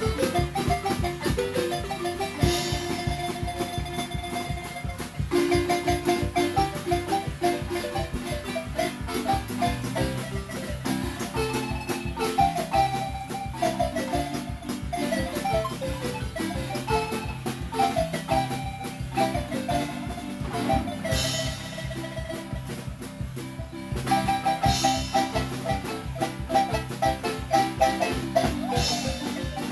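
Marimba ensemble playing acoustic marimba music, quick mallet runs and rolled held notes over a steady, even beat.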